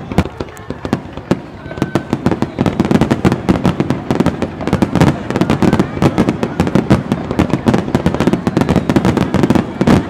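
Aerial firework shells bursting in rapid succession, a dense run of sharp bangs and crackles that grows busier about two and a half seconds in.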